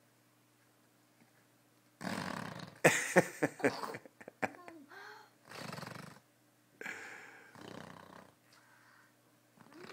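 A toddler making fart noises with his mouth, blowing raspberries: a crackling, sputtering burst about two seconds in, then three shorter breathy ones.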